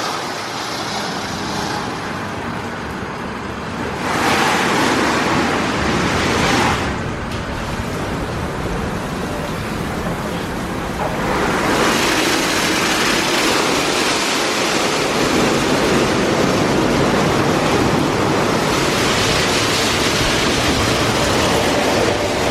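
PDQ ProTouch Tandem automatic car wash spraying water and chemical onto a vehicle: a steady hiss of spray that grows louder about four seconds in, drops back a few seconds later, then grows louder again from about eleven seconds on.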